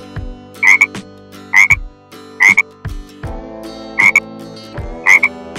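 A frog croaking: five short, loud croaks, each a quick double note, about a second apart with a slightly longer pause in the middle.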